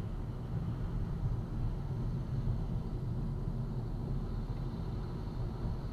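A car driving along: a steady, low rumble of engine and road noise.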